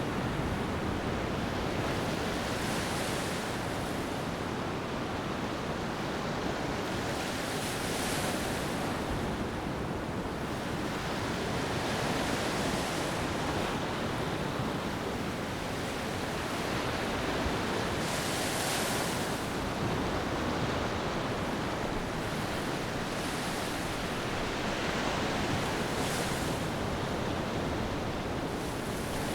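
Beach ambience of ocean waves washing on the shore, a steady wash of surf with soft swells every few seconds.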